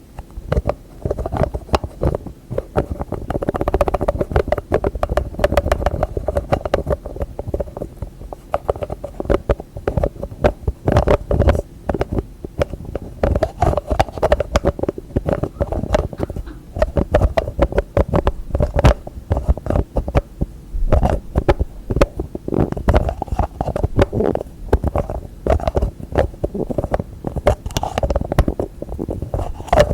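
Fingers tapping fast and without pause on hard objects and container lids, a dense stream of dull, hollow knocks with occasional sharper clicks.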